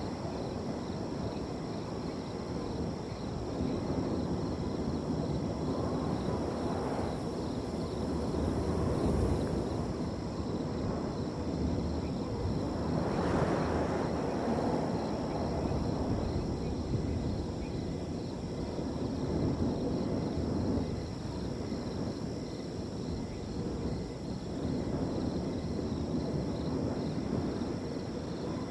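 Wind blowing through a field, rising and falling in gusts, the strongest swell about thirteen seconds in. Crickets trill steadily and faintly above it in a fast, even pulse.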